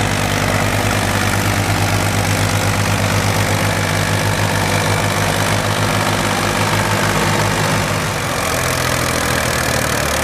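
Tractor diesel engines running with a steady low pulse. The engine note shifts to a different pitch about eight seconds in.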